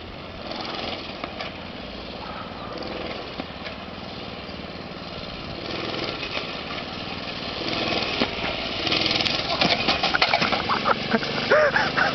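Mini bike's small single-cylinder engine running steadily, getting louder in the last few seconds, with people yelling over it near the end.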